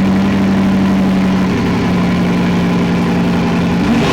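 Bugatti Chiron Pur Sport's quad-turbo W16 engine idling steadily right after start-up, its pitch dipping slightly partway through and rising briefly near the end.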